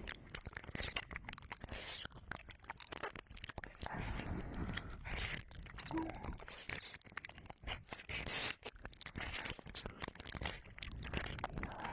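Ear-licking and mouth sounds made close against a 3Dio binaural microphone's ear: a dense, irregular run of wet clicks, smacks and slurps.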